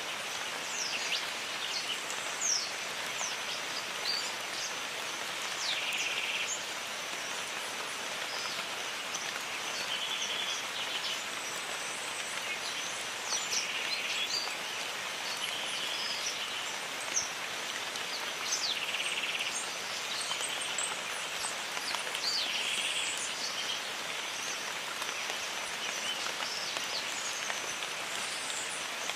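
Steady rain falling in a jungle, with birds calling over it in many short, sharp chirps. Short high buzzes recur every few seconds.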